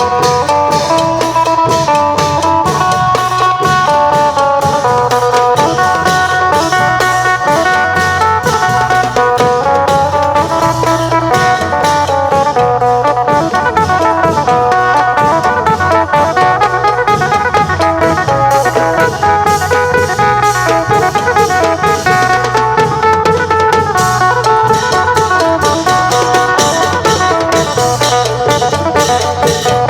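Isan phin (plucked lute) playing a quick running melody over klong yao long drums and percussion keeping a steady, repeating beat: Isan long-drum procession music.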